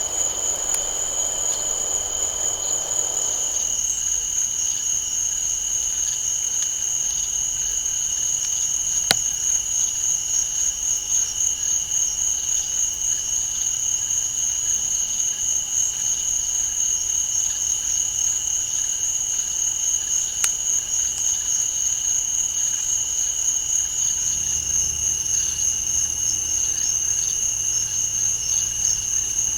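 Night-time chorus of crickets and other insects, a steady high pulsing trill at two pitches. A single sharp click sounds about nine seconds in, with a fainter one near twenty seconds.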